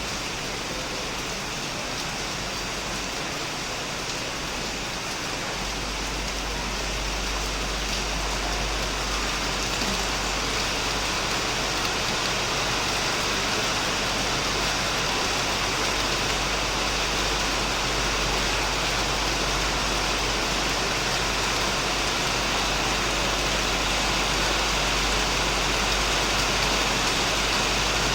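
Heavy rain falling on a shed and on plants: a steady, dense hiss that grows a little louder about six seconds in, with a low rumble underneath.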